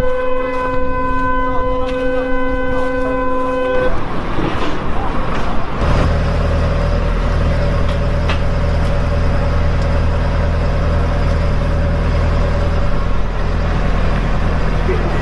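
A vehicle horn held on one steady note, cutting off about four seconds in, followed by a steady low engine drone.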